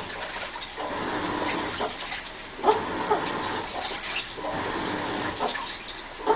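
Washing machine running a wash, water sloshing inside, with recurring strange squeaking, moan-like creaks every second or so.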